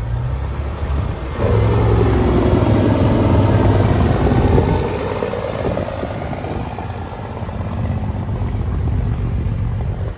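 Semi truck passing at speed: a sudden loud rush of engine and tyre noise about a second and a half in, its drone sagging in pitch as it goes by, then easing off.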